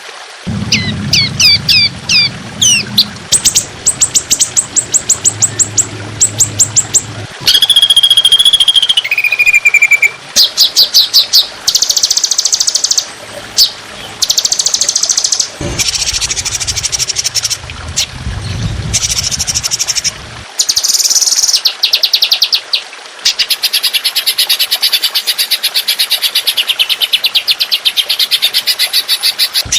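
Recorded songbird calls for bird training: rapid, closely packed strings of sharp high notes and trills ('tembakan' rapid-fire calls), spliced section to section. There are a few short clear whistles about eight seconds in and a long fast trill near the end.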